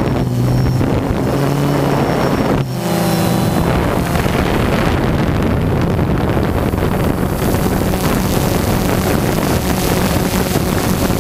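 Small multirotor drone's propellers running steadily, their humming tones clear at first and then mostly buried under wind rush on the onboard microphone.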